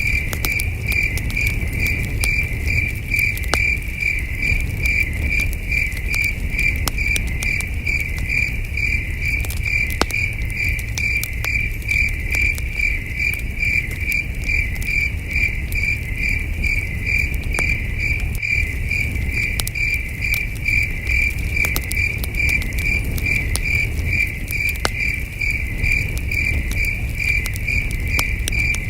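Crickets chirping in a steady, evenly pulsed rhythm, over the scattered sharp pops and low rumble of a crackling campfire.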